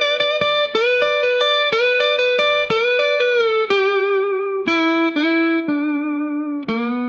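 Electric guitar playing a line of single picked notes, about two a second, that steps down in pitch towards the end.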